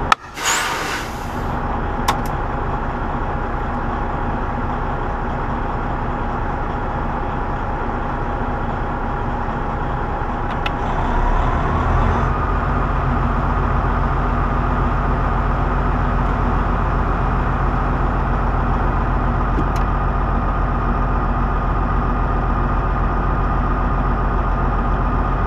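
Semi truck's diesel engine running steadily, with a short hiss about half a second in. Around eleven seconds in the engine note rises and then holds at the higher pitch.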